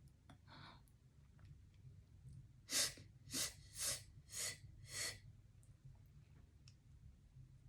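A woman's breathing: five quick, breathy gasps in a row, the first the loudest, after a faint breath near the start.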